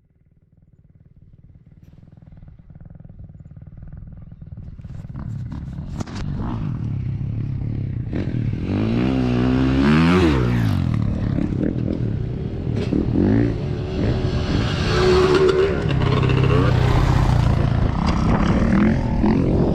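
Dirt bike engine running and revving. It grows from faint to loud over the first several seconds, then its pitch rises and falls with the throttle, with a sharp rev-up and rev-down about halfway through and another near three-quarters.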